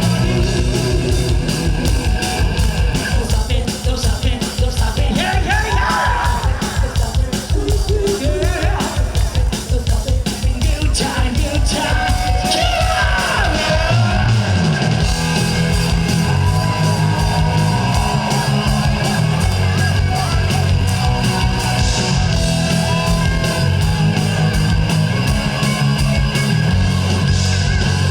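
Live rock band playing loud, with fast, driving drums and bass under electric guitar, and a voice singing and yelling high over it.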